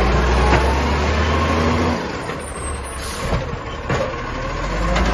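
Garbage truck's diesel engine running with a heavy low rumble that drops away about two seconds in. A short hiss comes about a second later, and a few sharp knocks near the end.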